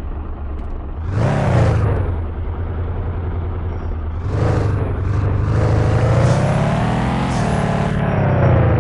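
Fiat Doblo van's engine pulling under acceleration, its pitch climbing and then dropping sharply at gear changes, about two seconds in and again near the end.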